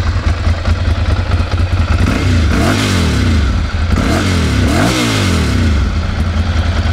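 A Ducati Monster 696's air-cooled 696cc L-twin engine, with a 2-into-1-into-2 exhaust, idling and then revved up and down a few times from about two seconds in before it drops back to idle. It runs smoothly with no abnormal engine noise.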